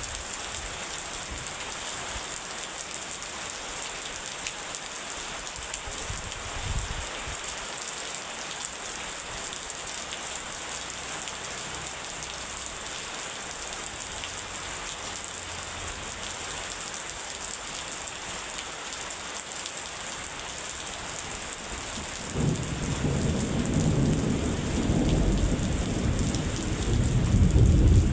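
Steady heavy rain hissing, with a brief low rumble about a quarter of the way in. Near the end a loud deep roll of thunder begins and builds.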